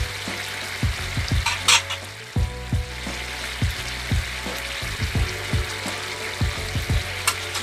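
Pork and baby corn sizzling in a hot wok as a steady frying hiss, with a couple of short clicks.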